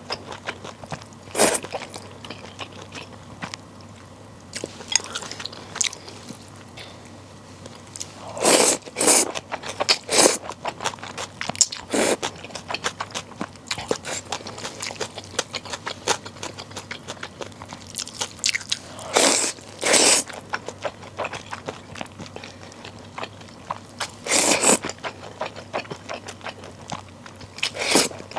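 Close-miked eating of bibim naengmyeon, spicy mixed cold noodles: about seven short, loud mouthfuls spread through, some in quick pairs, with quiet, clicky chewing between them.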